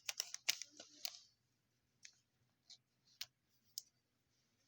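Trading cards and plastic card sleeves being handled: a quick run of sharp clicks and crinkles in the first second or so, then a few faint, scattered ticks.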